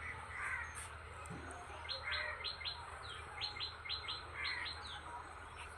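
Birds chirping: a short call about half a second in, then a quick run of brief, downward-sweeping chirps from about two seconds in, over a low steady hum.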